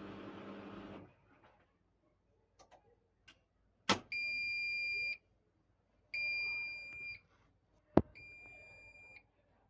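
Siemens washing machine: its running hum stops about a second in, followed by relay clicks and a sharp click, then three long, high electronic beeps about two seconds apart.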